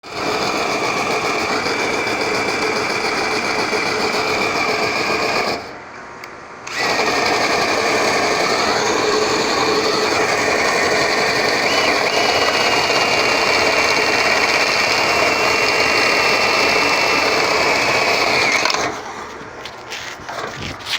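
Power drill spinning a rotary dryer-vent cleaning brush, running steadily with a whine. It stops for about a second near six seconds in, starts again, and cuts off a couple of seconds before the end, leaving a few light knocks.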